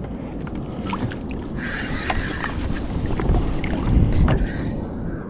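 Wind buffeting the microphone over water sloshing around a kayak at sea, with scattered small knocks and splashes. The rumble swells louder about three to four seconds in.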